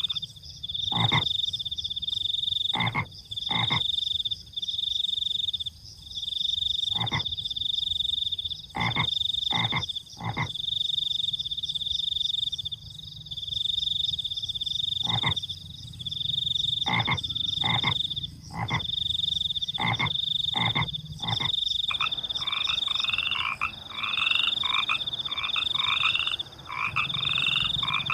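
Chorus of frogs and crickets calling: a high pulsing trill that runs in long stretches broken by short gaps, with short sharp croaks every second or two. About three-quarters of the way in, rapid repeated rising calls join, several a second.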